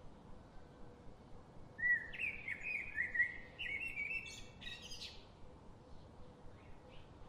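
A songbird singing one quick phrase of chirping notes, starting about two seconds in and lasting about three seconds, with a few faint calls after it over a steady background hiss.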